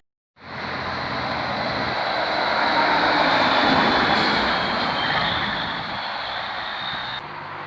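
Heavy truck driving past, its engine and tyre noise swelling to a peak about halfway through and then fading.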